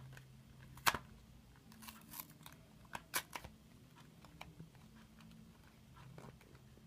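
Plastic toy packaging being handled and pried open: a few sharp clicks and crinkles, the loudest about a second in and a cluster around two to three seconds in.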